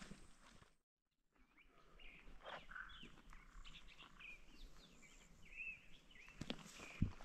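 Faint wild birds chirping and calling in short scattered notes, with footsteps on a dirt trail near the start and again near the end. The sound drops out completely for about half a second, about a second in.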